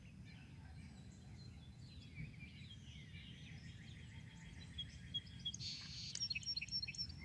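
Wild songbirds singing and chirping faintly over a steady low background rumble, with a run of quick high chirps and a short trill in the last couple of seconds.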